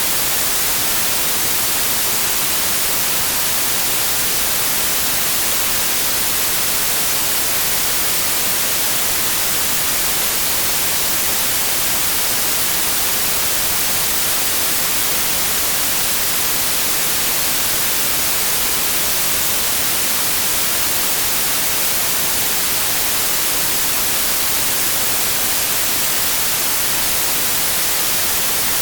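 Synthetic white noise: a steady, even hiss with no rhythm or change.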